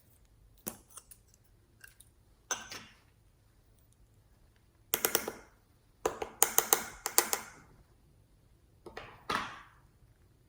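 Slime being handled and squished: several short bursts of crackling, clicking pops, the loudest a quick run of sharp clicks about six to seven seconds in.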